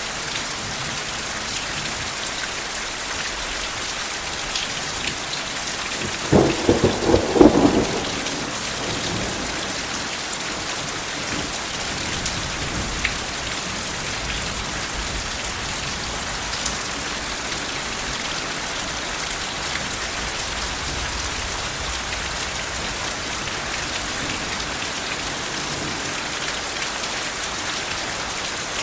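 Steady rain falling, with a crackling clap of thunder about six seconds in that lasts a second or two.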